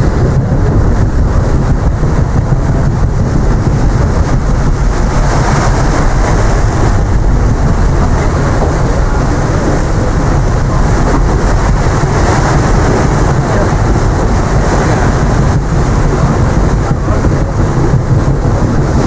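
Strong wind buffeting the camera microphone: a loud, steady, rumbling roar with no let-up.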